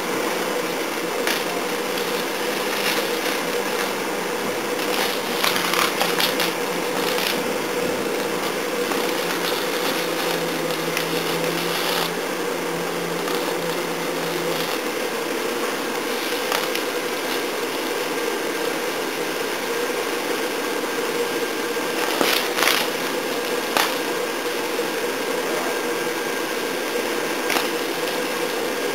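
Blower fan running steadily, forcing air through a wood fire: a constant rushing hum, with a lower tone that drops out about halfway through, and occasional sharp clicks from the fire.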